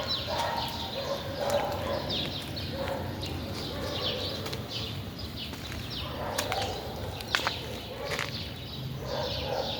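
Small birds chirping outdoors, a busy run of short, quick, downward-sliding chirps with a few sharp clicks among them.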